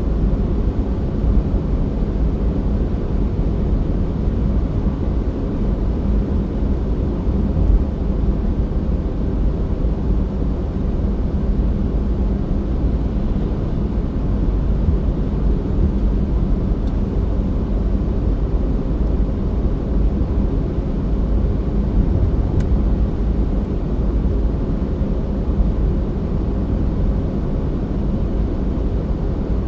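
Steady low rumble of a car driving: road and engine noise that holds an even level throughout.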